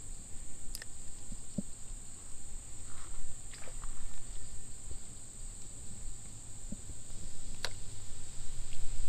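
Outdoor creek-side ambience: a steady, high-pitched insect drone, with a handful of sharp small clicks and ticks and a low rumble underneath.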